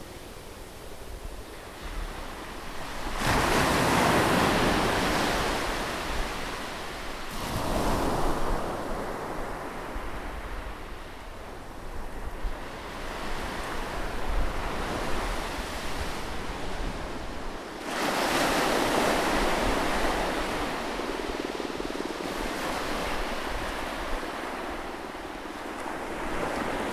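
Sea waves breaking close on a shore, several surges of hissing surf with a softer wash between them.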